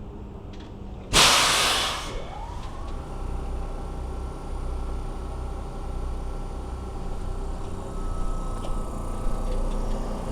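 Kintetsu electric train: a short, loud hiss of compressed air from the brakes about a second in, then the electric drive's whine gliding up in pitch and settling into a steady hum over a low rumble as the train pulls away.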